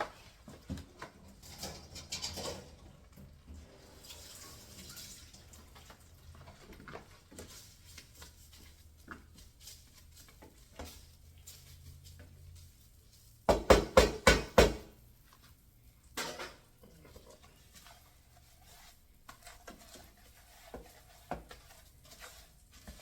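Kitchen handling sounds: bowls, utensils and containers clinking and knocking while a sweet potato mixture is prepared. Scattered light clicks run throughout, and about halfway through there is a quick run of about five loud knocks.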